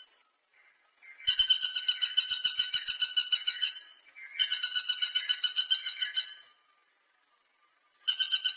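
Woodpecker calling in rapid rattling trills of evenly repeated high notes, about ten a second, in three bouts of two to three seconds with short pauses between.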